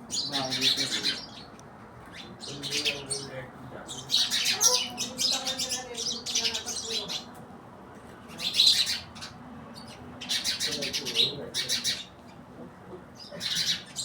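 Small birds chirping in a run of quick, high chattering bursts, about six clusters of a second or so each, separated by short pauses.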